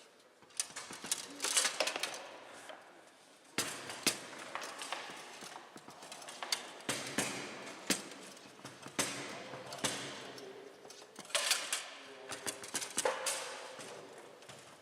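Bonzini foosball table in play: sharp, irregular knocks and clacks of the ball being struck by the figures and banging off the table walls and goal, with background voices.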